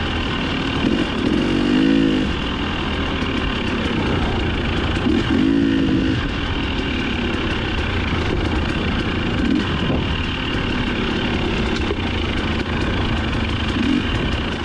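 Dirt bike engine running under load, its revs swelling up and dropping back several times as it is ridden along the trail.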